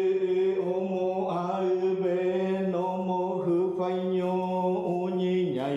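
A shaman's chant: one voice intoning on long held notes at nearly one pitch, with short breaks between phrases, dropping to a lower note near the end.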